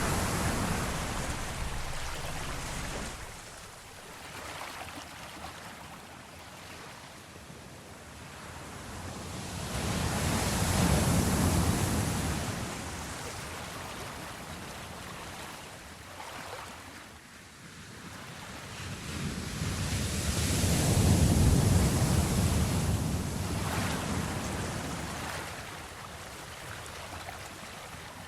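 Sea waves washing in a slow swell: a rushing surge that builds and fades, peaking about ten seconds in and again about twenty seconds in.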